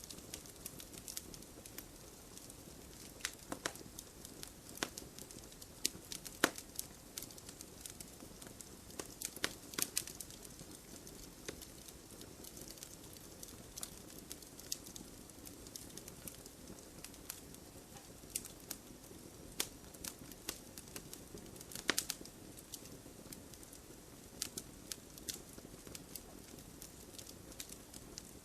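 Wood fire burning in a fireplace: a soft steady hiss with irregular crackles and sharp pops, a few of them louder than the rest.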